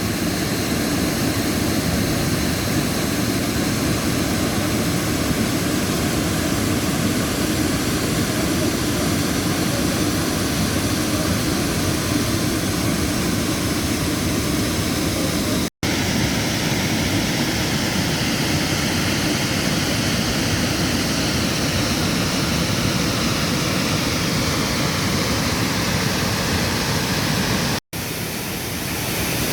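Waterfall: a steady, loud rush of falling water. It cuts out for an instant about halfway through and again near the end.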